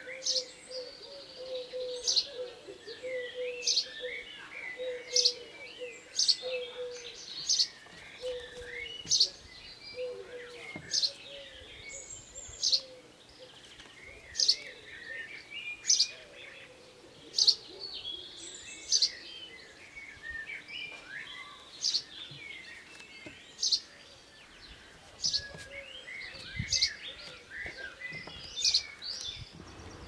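Birds singing and calling. One repeats a sharp high call about every second and a half throughout, with warbling chirps between. A lower series of repeated notes runs through the first several seconds.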